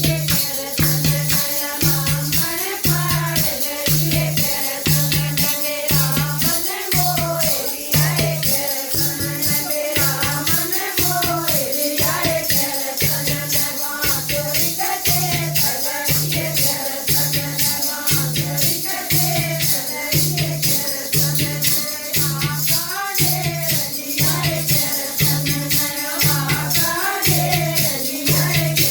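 Haryanvi devotional bhajan music: a melodic line over a steady beat, with shaken rattle percussion.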